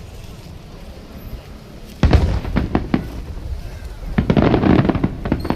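Aerial fireworks going off. A heavy boom about two seconds in is followed by a run of sharp cracking bangs, then another dense cluster of bursts about four seconds in.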